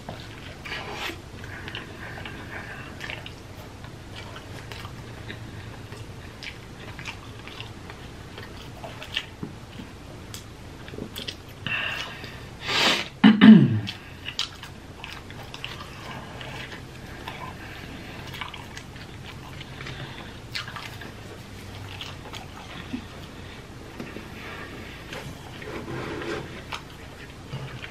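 A person chewing a mouthful of cheeseburger, with wet smacking and small crackly bites. About halfway through there is a short hummed 'mm' that falls in pitch, the loudest moment.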